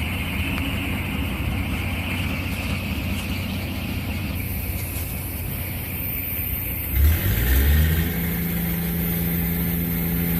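Diesel engines running steadily with a hiss. About seven seconds in, a motor starts with a loud burst and winds up to a steady idle hum.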